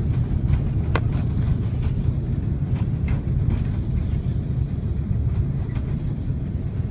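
Steady low rumble inside an Airbus A330 airliner's cabin as it rolls along the runway just after touchdown, with a single sharp click about a second in.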